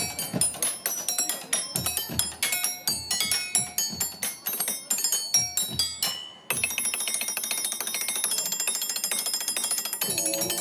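Live percussion played on construction materials, sharp struck hits that ring with high metallic tones in a fast rhythm. About six and a half seconds in it cuts off abruptly and a denser, steadier run of quick ringing notes takes over.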